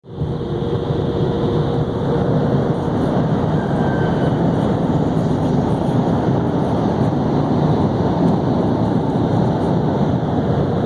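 A vehicle running steadily: a dense, even noise, heaviest in the low range, with a faint held tone.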